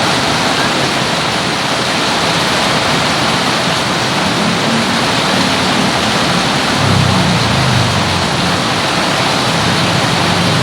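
Heavy rain falling, a steady rush of noise. A little past halfway, a low wavering hum joins in underneath.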